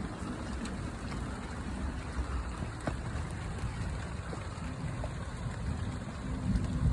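Rain falling, with a steady low rumble underneath and a few scattered ticks of drops.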